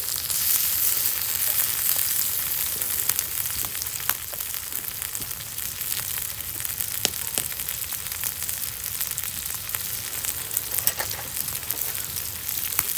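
Food frying in hot oil in a pan: a steady sizzle with scattered sharp pops and crackles, a little louder in the first couple of seconds.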